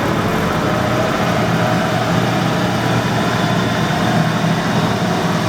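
Clausing 5914 metal lathe running steadily, its 2 HP three-phase motor and hydraulic variable-speed drive giving a constant mechanical hum with a whine above it, while the speed control is turned up toward full speed.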